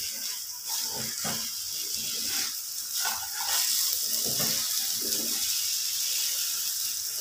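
Sabudana and freshly added sugar sizzling in oil in a frying pan, with a wooden spatula scraping and stirring through them in short irregular strokes. The hiss grows louder about halfway through.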